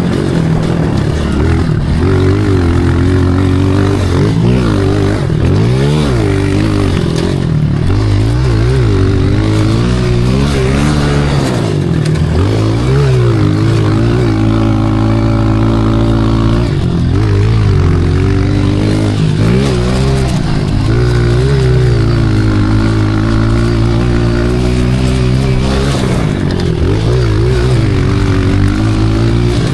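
Pit bike engine being ridden hard, its revs rising and falling over and over, held steadier for a few seconds around the middle.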